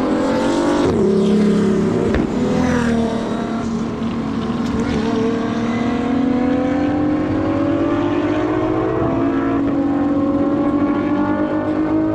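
Car engine at full throttle on an acceleration run, shifting up quickly in the first seconds, then climbing slowly and steadily in pitch in a high gear.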